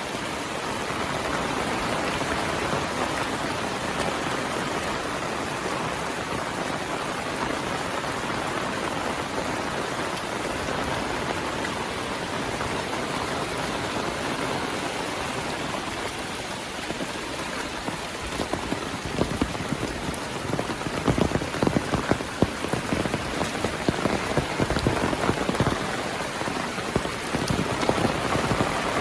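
Heavy monsoon rain pouring steadily. In the last third, many louder, sharper drops strike close by as a dense irregular patter over the rain.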